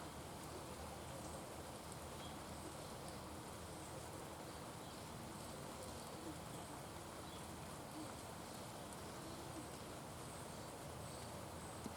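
Faint outdoor ambience: a steady hiss with short, high chirps now and then.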